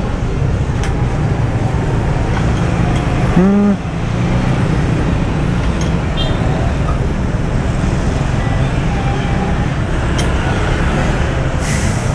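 Roadside traffic noise: engines of passing vehicles running in a steady rumble. A short wavering pitched sound stands out about three and a half seconds in.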